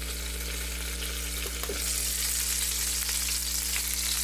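Breaded tofu slices sizzling in hot oil in a frying pan, the sizzle growing stronger about two seconds in, over a steady low hum.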